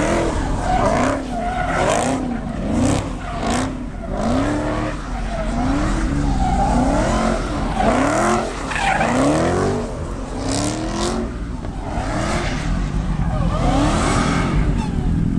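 A car engine revving up and falling back about once a second while its tyres spin and squeal in a burnout.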